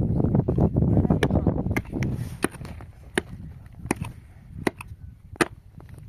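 Blows of a hand tool, struck at a steady pace of about one every three-quarters of a second, each a sharp crack. A loud, low rumbling noise fills the first two seconds.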